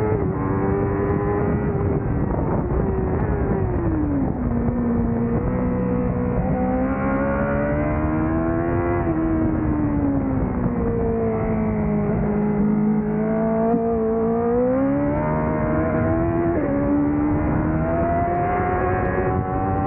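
Onboard sound of a Honda CBR1000RR-R Fireblade's inline-four engine being ridden hard on track. The engine note falls off into corners and climbs again under throttle several times. It jumps abruptly in pitch about three-quarters of the way through, as on a gear change.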